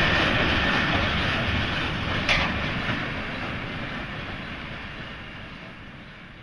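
A vintage train hauled by a steam locomotive rolling along the tracks, with a thin steady squeal at first and a single sharp clank a little over two seconds in. The rumble fades steadily as the train draws away.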